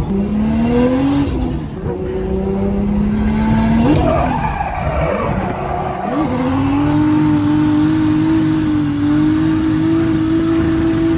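Nissan 180SX drift car heard from inside the cabin: the engine climbs in revs in the first second, then holds steady. About four seconds in, the pitch wavers as the tyres squeal. From about six seconds on, the engine holds high, steady revs while the tyres skid through a long drift.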